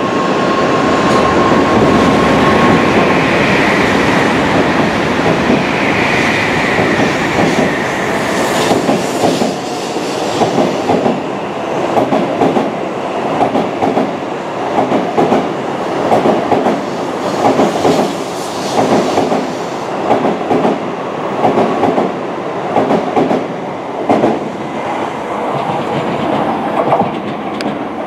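Tokaido Shinkansen train moving alongside the platform: a steady rumble with a high motor whine in the first several seconds, then a run of rhythmic wheel clacks about once a second from around ten seconds in.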